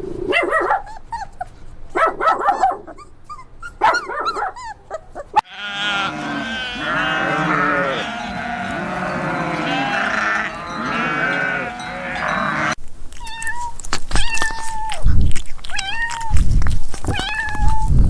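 Domestic animal calls in three short clips that cut into one another. First come scattered short calls, then many animals calling over one another. The last clip is a cat meowing again and again.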